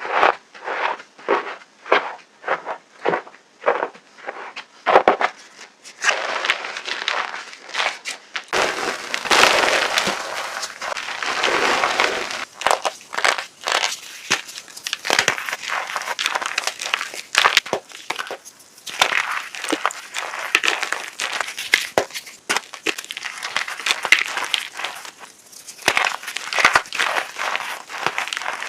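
Chunks of reformed gym chalk being crushed: separate crisp crunches two or three a second at first, then, from about six seconds in, a dense, continuous crumbling crackle.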